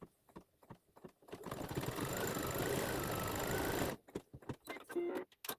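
Embroidery machine running for about two and a half seconds, starting a second or so in and stopping abruptly, with light clicks before and after.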